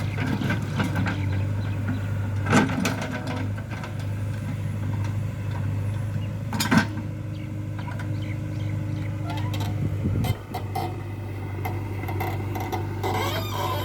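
Heavy diesel machinery engine running steadily, with a sharp knock about two and a half seconds in and another near seven seconds. A steady higher hum joins shortly after the second knock and cuts off about ten seconds in.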